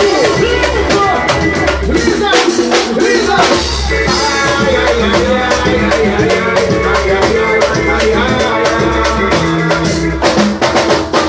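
Live band music, with a drum kit and bass notes keeping a steady beat.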